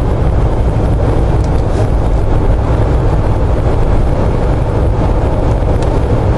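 Steady in-cab road, wind and drivetrain drone from a Jeep Wrangler JK with a Chevy LS engine swap, cruising at a steady 65 mph on cruise control in sixth gear. The drone is heaviest in the low range and holds even throughout.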